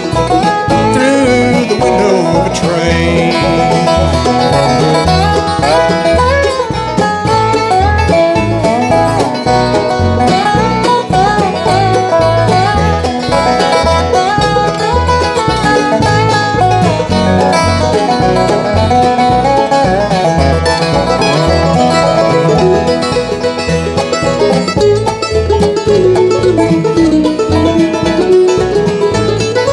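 Bluegrass band playing an instrumental break, banjo and guitar picking over a steady bass beat, with a melody line that slides down and back up near the end.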